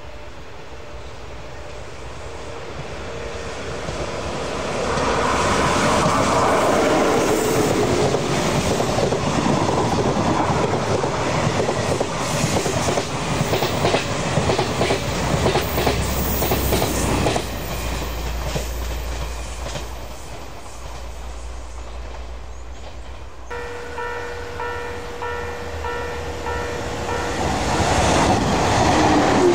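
Electric-locomotive-hauled train of dark green coaches approaching and passing close by, its wheels rumbling and clattering over rail joints. Later, pulsing electronic warning tones sound, and a 485-series limited express EMU rushes through the station near the end.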